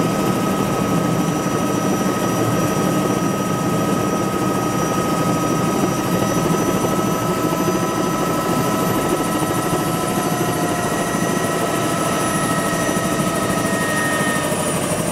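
Helicopter running steadily: a continuous rotor and engine noise with a steady whine. The whine's pitch sags slightly over the last few seconds.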